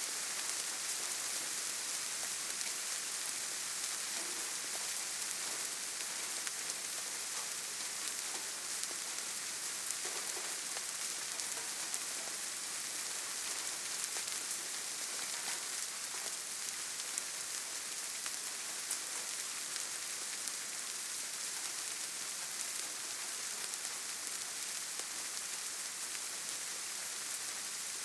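Steady rainfall: a dense, even hiss of rain with scattered individual drops ticking through it.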